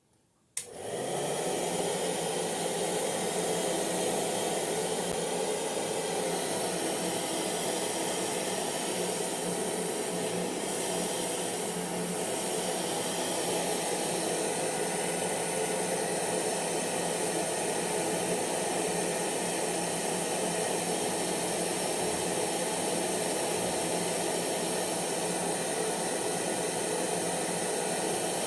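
Hair dryer switched on with a click about half a second in, quickly spinning up to speed, then running steadily with an even rush of blown air and motor whir.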